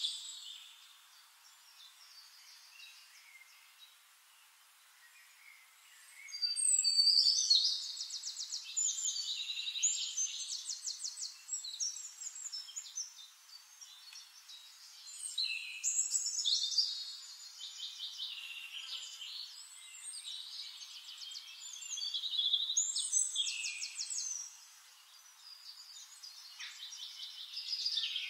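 Songbirds singing: after several quiet seconds, repeated phrases of fast, high chirping trills, each lasting a few seconds with short gaps between.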